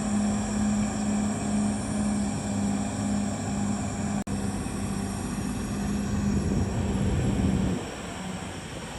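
Diesel engine of a CAT D6R XL bulldozer running steadily under load, with a steady low hum. It cuts out for an instant about halfway through, and near the end the hum stops and the engine sound drops to a lower level.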